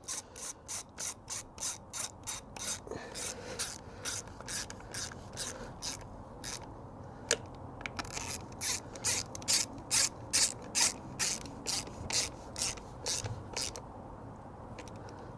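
Hand ratchet being worked back and forth in quick, even strokes, about three to four a second, as bolts are run in on a motorcycle's front sprocket cover. The ratcheting comes in two runs with a short pause between and stops about a second before the end.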